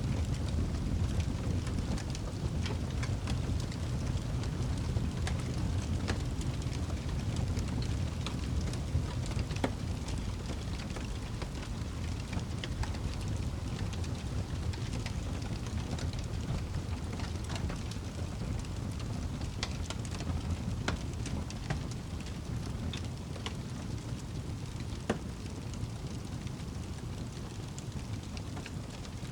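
Campfire crackling, with irregular sharp pops and snaps over a steady low rushing background.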